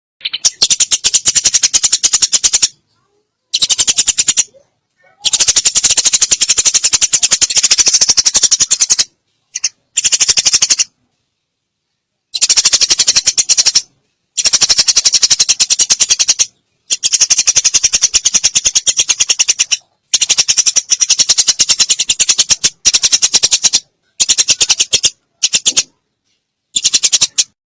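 Eurasian tree sparrow chattering in rapid, harsh runs of chirps, about ten bursts of one to four seconds with silent gaps between: the agitated fighting chatter of the sparrow.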